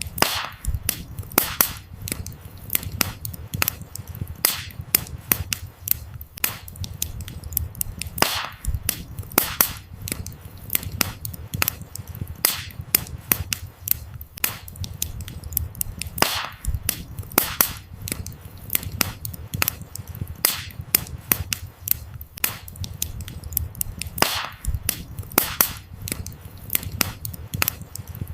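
Wood fire crackling: a steady run of sharp pops and snaps, several a second, with a louder snap every few seconds, over a low steady rumble.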